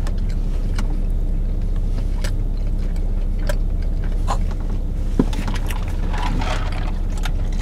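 Steady low hum of a parked car's engine idling, heard from inside the cabin, with faint clicks and mouth sounds of people biting and chewing sandwiches.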